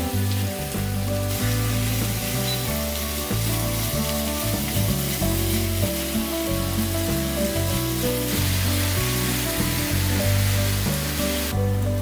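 Food frying in a hot pan, a steady sizzle that grows stronger about a second in and falls away near the end.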